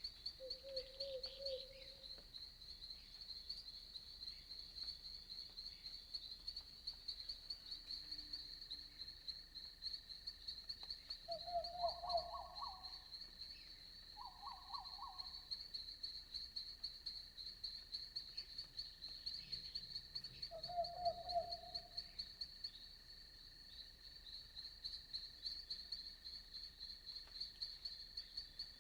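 Crickets chirping in a fast, even, unbroken trill through a night forest ambience. A few short, lower trilled calls from another night animal break in: one near the start, a pair around the middle, and one more about two-thirds through.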